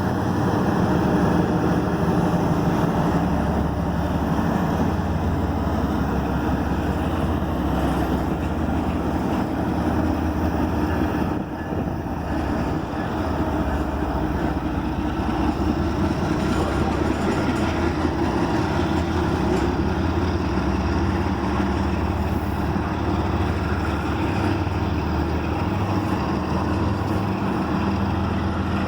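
Intermodal freight train rolling past: steel wheels running on the rails in a steady low rumble and clatter that barely changes in level, with a brief dip about eleven seconds in.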